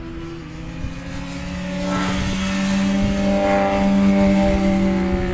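Racing motorcycle engine running at high revs, growing louder over the first few seconds as the bike comes closer on track. Wind buffets the microphone underneath.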